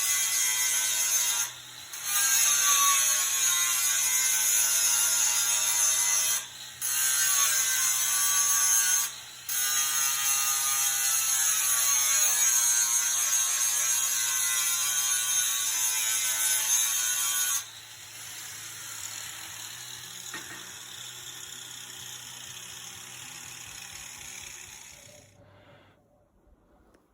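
A geared mechanism or motor whirring with a high-pitched hiss, its pitch wavering. It stops briefly three times, runs quieter from about two-thirds of the way through, then dies away near the end.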